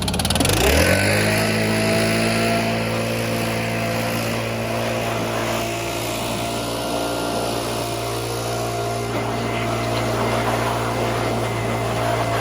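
Toro lawn mower's small gas engine catching and running up to speed in the first second, then running at a steady speed.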